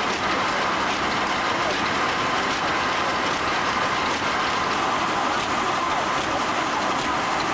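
Steam-powered sawmill machinery running, a steady, even mechanical din with no distinct strokes or breaks.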